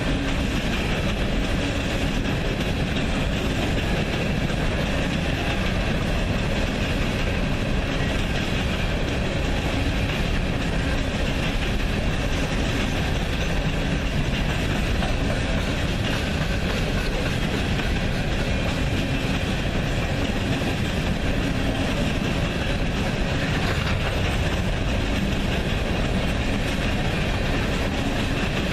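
Train rolling past, a steady rumble and rail noise from the wheels of its cars running over the track.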